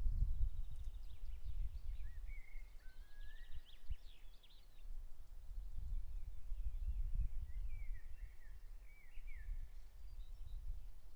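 Songbirds singing in short warbling and trilling phrases, several in a row, with a low uneven rumble underneath.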